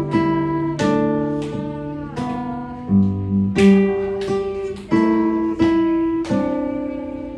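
Acoustic guitar playing a slow instrumental passage, chords struck about once or twice a second and left to ring.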